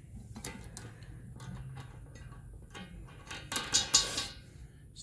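Metal clinks and rattles of steel tow bar hardware, such as bolts, spring washers and plates, being handled and fitted. There are scattered sharp clicks, and the loudest cluster comes about three-quarters of the way through.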